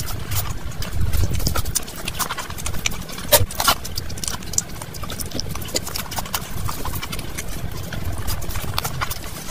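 Close-miked mouth sounds of eating rice and mutton curry by hand: chewing and lip-smacking as a rapid run of short clicks and smacks, with a louder cluster about three and a half seconds in.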